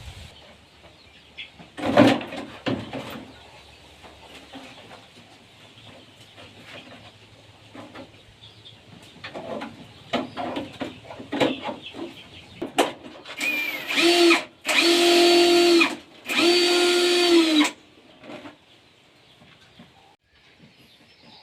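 A small power-tool motor runs in three short bursts, each spinning up, holding a steady pitch and winding down, after scattered knocks and handling clatter.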